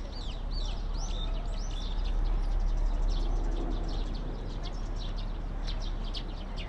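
Many small birds chirping in quick, repeated short calls over a steady low rumble.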